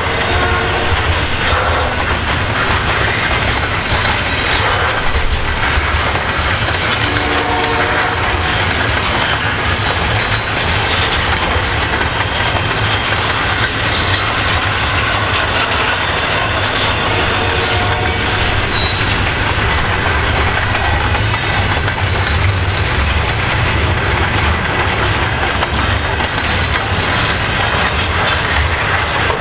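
Double-stack container well cars of a freight train rolling past close by: a steady rumble and clatter of steel wheels on the rails, with a few brief tones now and then.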